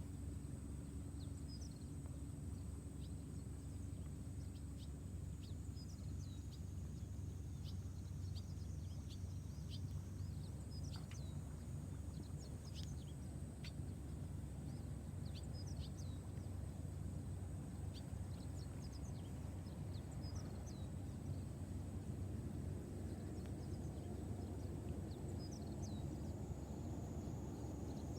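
Background ambience: scattered short bird chirps over a steady low rumble and a faint, steady high-pitched tone.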